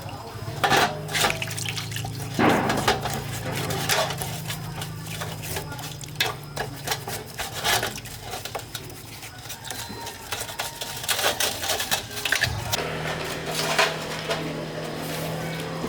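Metal parts clinking and knocking, with liquid sloshing, over a steady low hum that drops out briefly about twelve seconds in.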